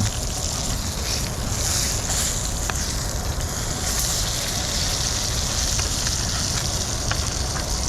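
Fish fillets frying in a pan: a steady sizzle with a few small pops, over a low rumble.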